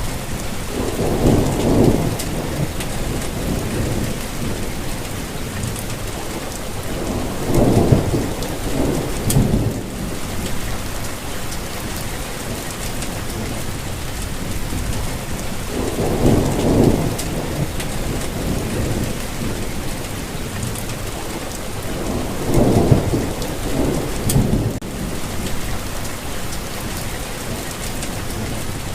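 Steady rain falling, with low rolling rumbles of thunder that swell up four times, each lasting a second or two.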